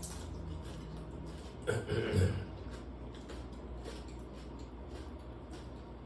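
A person gives a brief cough-like sound from the throat about two seconds in, over a steady low hum.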